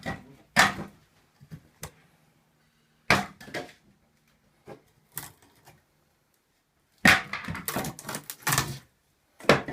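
Irregular clusters of sharp knocks and cracking, like wood or building materials being struck and handled during construction work, with the busiest run of knocks near the end.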